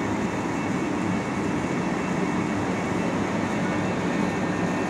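Steady low engine rumble from a ladder fire truck running in place, even in level throughout.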